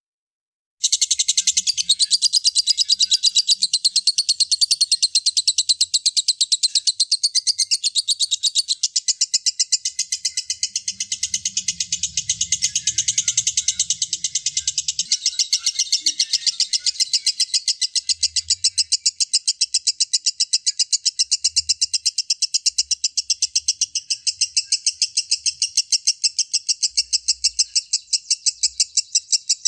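Lovebird singing its ngekek: a long, unbroken chatter of rapid, sharp, high repeated notes that starts about a second in.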